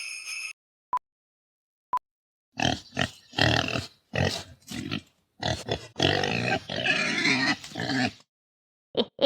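Pig sound effect: a run of grunts and oinks in irregular bursts lasting several seconds. Two short beeps a second apart come before it, and a quick string of short calls starts near the end.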